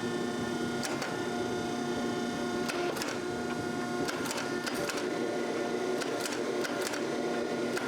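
A small electric machine running steadily, with scattered sharp clicks.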